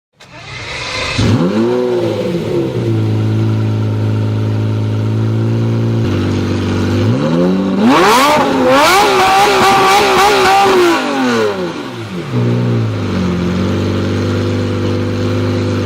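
Lamborghini Gallardo LP570-4 Superleggera's V10 engine idling and being revved. There is a quick blip about a second in, then a longer climb about halfway through that holds at high revs for a few seconds before falling back to idle. Another short blip follows, and the revs start rising again near the end.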